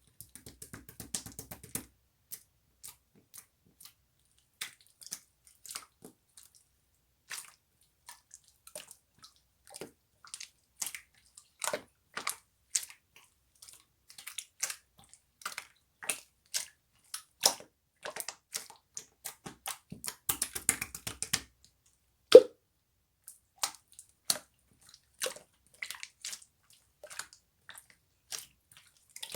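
Slime being played with by hand: irregular small wet clicks and pops as it is pressed and folded, with one sharper, louder pop about three quarters of the way through.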